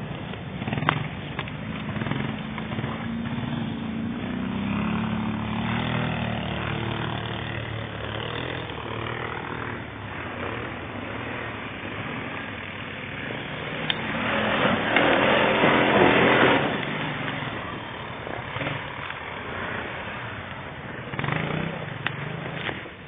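Quad bike (ATV) engine running and revving as it is driven off-road, the pitch rising and falling. About two-thirds of the way through there is a loud rushing surge lasting a couple of seconds.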